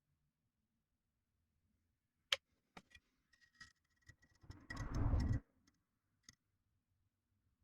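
Occasional sharp clicks and light taps of small metal parts and tools being handled on a workbench, with a short scrape or rustle about five seconds in.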